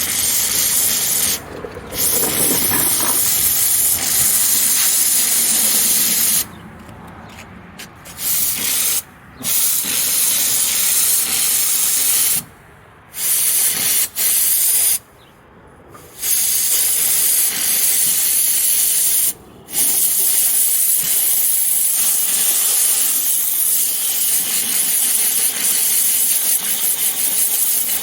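Small steamer jetting a loud hiss of steam onto a yellowed plastic headlight lens, in a restoration attempt to clear the yellowing; the jet cuts off several times for a moment or two and starts again.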